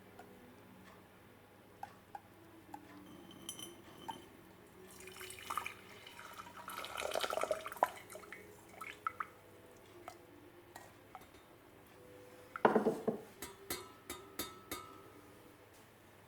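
Hot lemon verbena syrup poured from a pot through a cheesecloth-lined sieve into a jug: a splashing pour for a few seconds about a third of the way in, with scattered drips. About two-thirds in comes a sharp clink, the loudest sound, followed by several lighter clinks of kitchenware.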